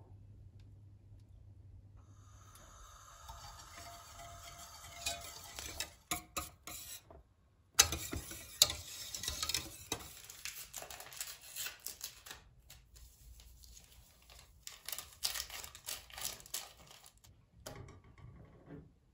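Kitchen work: dishes and utensils clinking and knocking, with stirring. A few seconds in there is a stretch of steady hissing noise, and after a brief pause a busy run of irregular clatters follows.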